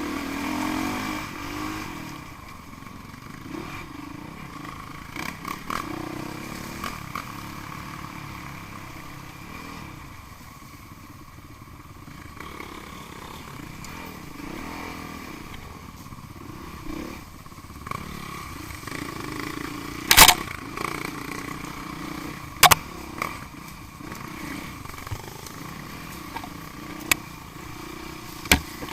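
Enduro dirt bike engines running and revving, their pitch rising and falling. A few sharp knocks come in the second half, the loudest about two-thirds of the way through.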